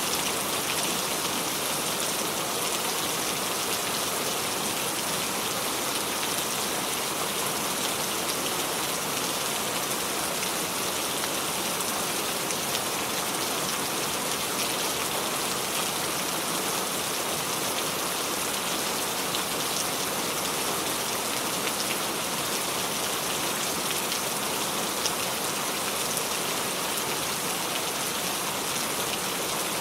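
Steady rain with fine close droplet patter, an even hiss that does not change.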